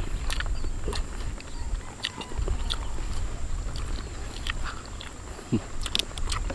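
Chewing and wet mouth sounds of people eating sushi, with scattered small smacks and clicks.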